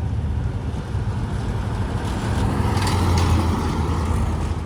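Classic car engine rumbling as the car drives past, growing louder to a peak about three seconds in, then easing off.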